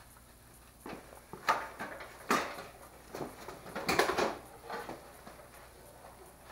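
Several knocks and clatters of objects being handled and set down, the loudest about a second and a half, two and a quarter, and four seconds in.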